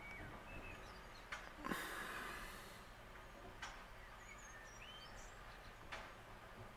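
Faint background with a few short, high bird chirps, some light clicks, and a brief rush of hiss about two seconds in.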